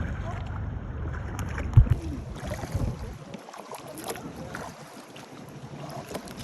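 Kayak on the water: paddle splashes and water sounds, with wind buffeting the microphone for about the first half and a sharp knock just before two seconds in.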